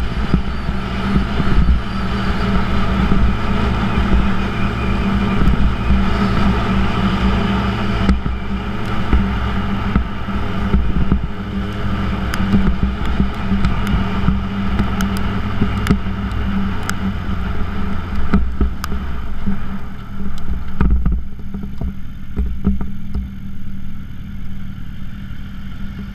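2006 Yamaha YZF-R1's inline-four engine with a Yoshimura titanium exhaust, running steadily under way with wind noise on the microphone. Past the two-thirds mark the engine note and wind ease as the bike slows almost to a stop.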